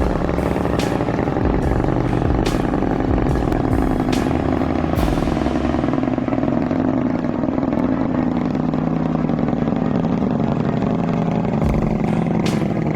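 A heavy vehicle's engine running steadily, with scattered sharp knocks and clatters.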